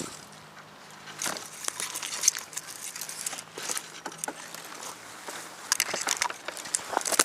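Footsteps crunching and crackling on dry ground, a run of irregular sharp crackles.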